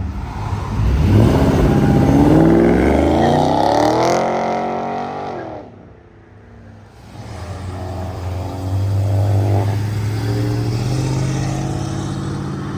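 A car engine revving hard as the car accelerates away, its pitch climbing steadily for a few seconds before it fades out. A second car's engine comes up about halfway through and runs on steadily.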